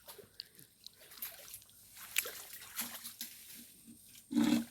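Stream water splashing and sloshing irregularly as hands search the shallows for fish, crabs and snails, with one louder sound near the end.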